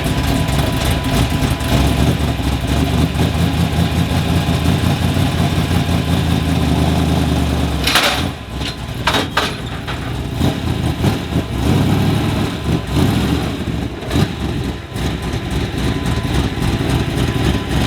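Drift truck's engine running steadily, then a sudden sharp noise about eight seconds in, after which the engine note turns uneven, rising and falling.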